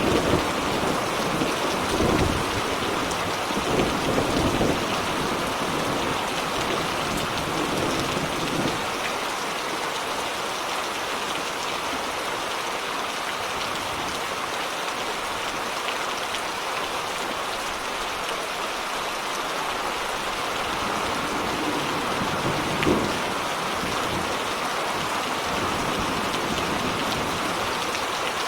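Steady rain falling during a thunderstorm. Thunder rumbles through the first third and fades away, and a short rumble rises again later on.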